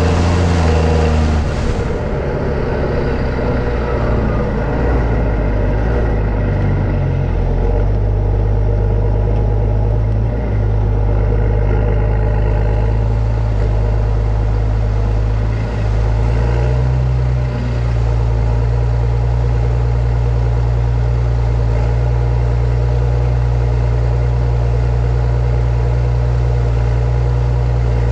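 New Holland T7.210 tractor's six-cylinder diesel engine running steadily while pulling a subsoiler. The engine note shifts a few times in the first two-thirds, then holds steady.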